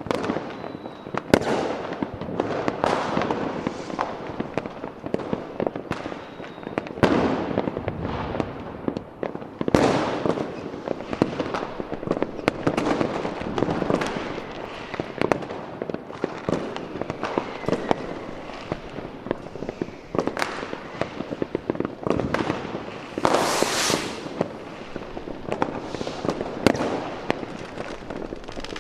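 Fireworks going off continuously: many sharp bangs and crackles overlapping, with a few louder bursts, the biggest about 24 s in.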